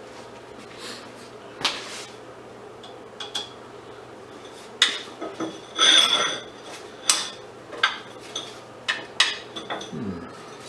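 Scattered clinks and knocks of metal parts and hand tools handled on a workbench while a brass light fixture is taken apart. There is one louder, ringing metallic clink about six seconds in.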